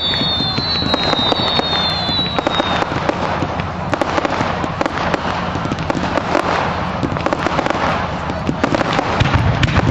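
Fireworks display: dense, continuous crackling of many small rapid pops, with two whistling fireworks that fall slightly in pitch over the first few seconds and a deep boom near the end.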